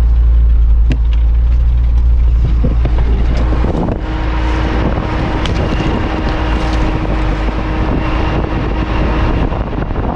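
4x4 vehicle driving along a track overgrown with long grass, its engine and road rumble steady. About four seconds in, the low rumble gives way to a denser rushing noise.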